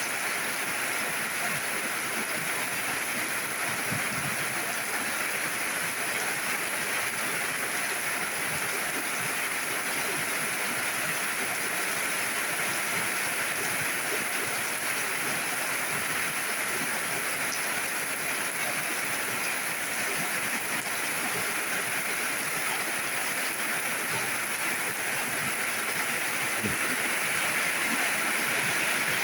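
Steady rain falling, an even rushing hiss that holds level throughout.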